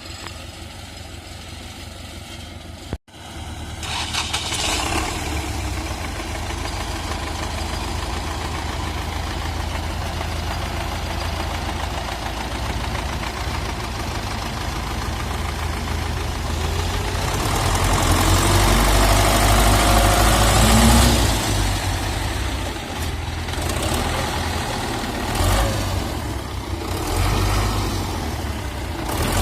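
A tractor engine runs, revving harder and louder for a few seconds past the middle, then easing back. A brief dropout about three seconds in marks a cut.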